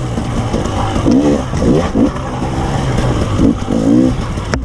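KTM 300 EXC TPI single-cylinder two-stroke enduro engine revving up and down again and again as the throttle is opened and closed, with a sharp knock near the end.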